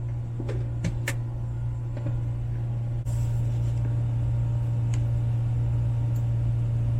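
Steady low drone inside a truck cab, with a few light clicks and rustles as the wrapping is peeled off a piece of suman.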